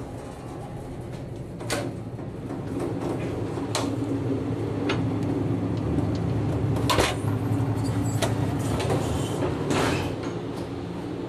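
Running noise of a sleeper express coach heard from inside: a steady low rumble that grows louder a few seconds in, crossed by five sharp clacks at uneven intervals.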